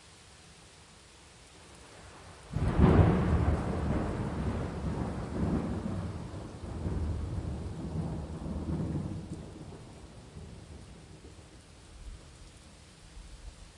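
Thunder over steady rain: a clap breaks suddenly about two and a half seconds in and rumbles on in several swells for about seven seconds before fading back to the rain.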